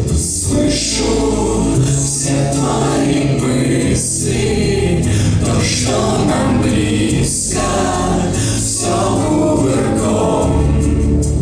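A choir singing with a sustained bass accompaniment.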